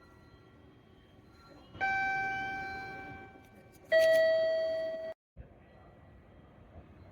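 Two-note 'ding-dong' chime, a higher note then a lower one about two seconds apart, each ringing and fading away. The sound cuts off abruptly just after the second note.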